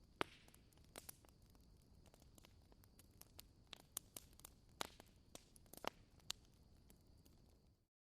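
Wood bonfire crackling faintly: scattered sharp pops and snaps over a soft hiss, fading out to silence near the end.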